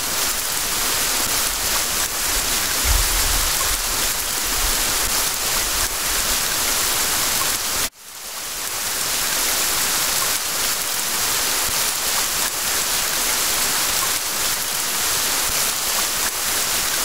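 Steady heavy rain, a dense even hiss. It cuts out abruptly about eight seconds in and swells back over about a second. A low rumble lies under it in the first half.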